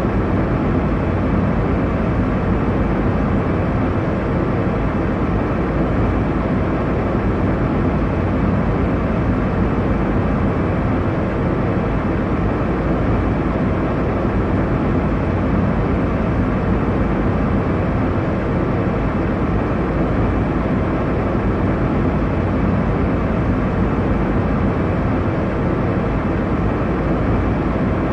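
Airliner cabin noise in flight: a steady low rumble and rush of engine and airflow noise that does not change.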